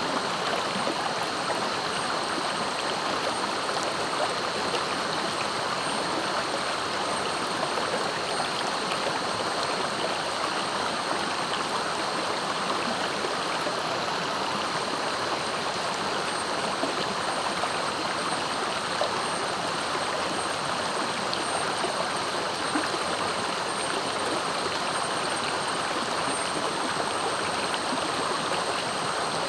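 Clear, swift river rushing and gurgling over its bed, a steady, unbroken wash of water. A thin steady high tone runs above it, dropping out briefly about halfway through.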